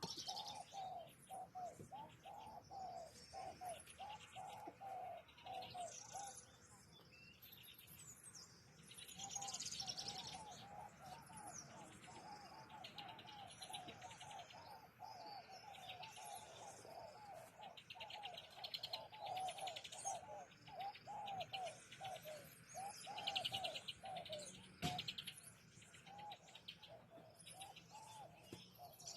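Birds calling: a fast string of short, low, curved notes repeated several times a second, breaking off for a couple of seconds early on and then running on, over higher chirps and rapid trills.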